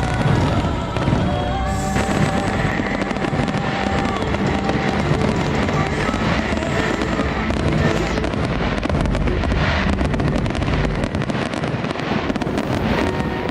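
Fireworks going off in a dense, continuous barrage of bangs and crackles, over the show's music soundtrack.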